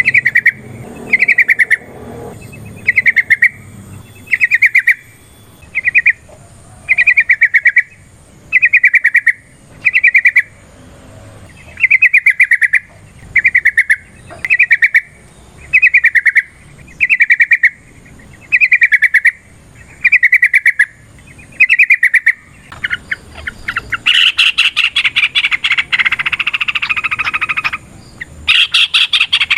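Yellow-vented bulbul singing: a short, rapid, bubbly phrase repeated about once a second, then about three-quarters of the way in a long, continuous rapid chattering song.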